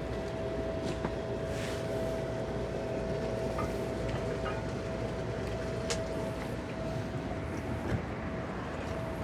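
Twin 200 hp Suzuki outboard motors running steadily: a low rumble under a constant high whine, with a few faint knocks.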